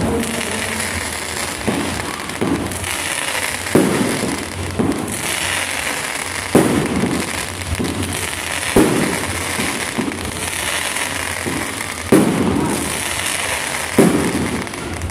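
Fireworks display: aerial shells bursting every second or two, each a sharp bang, over continuous crackling.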